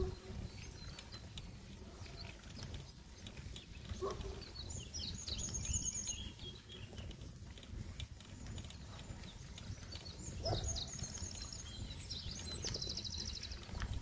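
Small songbirds chirping, with short, fast, buzzy trills several times, over a steady low rumble of wind on the microphone of a moving bicycle.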